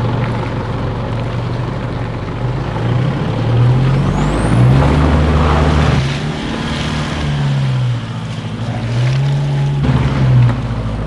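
A four-wheel drive's engine revving up and falling back several times as it works through muddy ruts under load.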